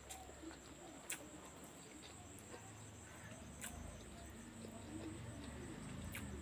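Faint cooing of a pigeon or dove over a steady low hum, with a few sharp clicks.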